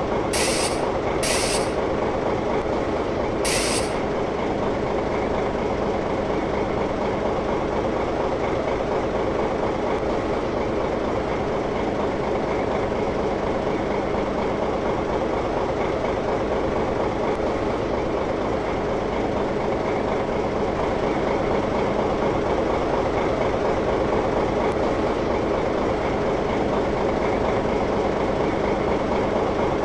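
A rail vehicle's motor running with a steady, even hum, with three short hisses in the first four seconds.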